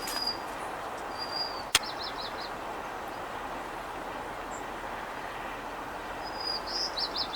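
A small songbird calling twice, about five seconds apart: each time a brief high note followed by four or five quick chirps, over a steady outdoor background hiss. A single sharp click sounds just under two seconds in.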